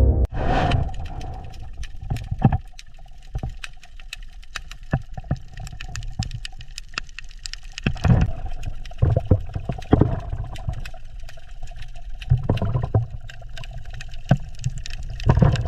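Water gurgling and bubbling, swelling every few seconds, with many scattered sharp clicks.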